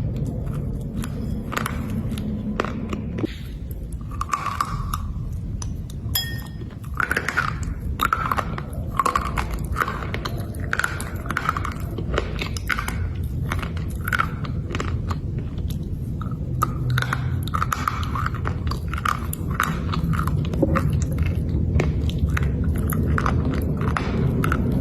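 Black slate being bitten and chewed: a run of irregular, sharp, crisp crunches, several a second, as the hard slate breaks between the teeth.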